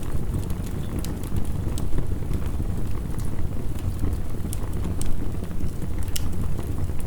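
Heavy rain and a crackling wood fire mixed together: a steady, deep rush of noise with sharp pops and crackles scattered irregularly throughout.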